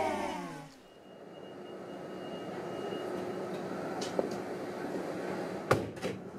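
Train running noise heard from the driver's cab: a steady hum that grows louder over the first couple of seconds, then holds, with a few sharp clicks and a louder knock near the end. The end of a voice fades out in the first moment.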